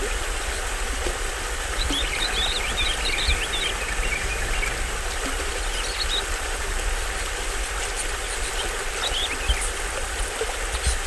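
Small stream waterfall with water rushing steadily and a deep rumble underneath. Birds chirp briefly over it about two seconds in, again near six seconds and near nine seconds.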